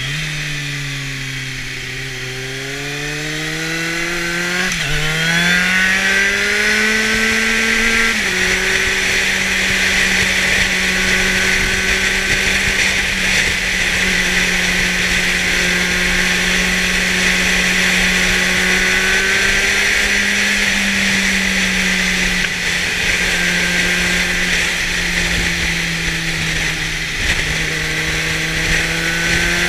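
2004 Kawasaki Z750's inline-four engine through a LeoVince exhaust. It accelerates with an upshift about five seconds in and another about eight seconds in, then cruises at a nearly steady pitch and begins pulling harder again near the end. Wind rush on the knee-mounted microphone runs beneath it.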